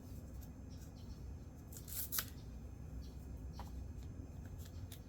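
A few light clicks and taps from handling small tools and wires, the sharpest about two seconds in, over a low steady hum.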